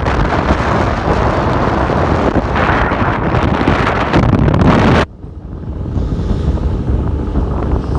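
Wind buffeting the microphone on a ship's deck, a loud rough rushing that drops away suddenly about five seconds in and builds back up.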